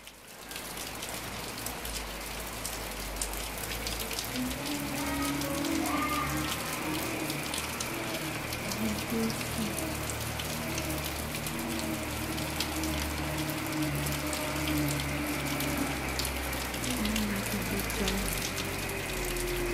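Light drizzle falling: a steady hiss of rain with many small drop ticks.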